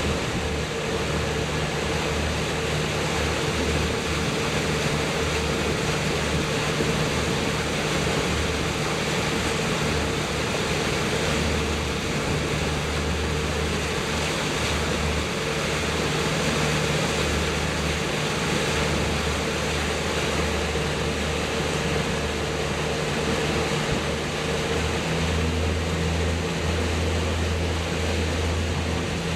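Boat motor running steadily under way, its low hum shifting slightly near the end, over a constant rush of wind and water.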